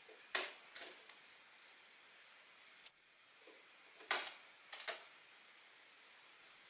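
Orange-headed thrush (anis merah) giving short, sharp 'chip' call notes, four or five separate notes with gaps between them, the loudest a brief high note about three seconds in. A steady high cricket-like tone stops just under a second in.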